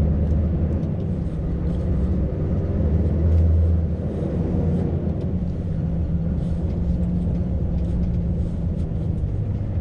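Scania V8 truck engine running steadily, a low engine sound heard with the truck at low speed.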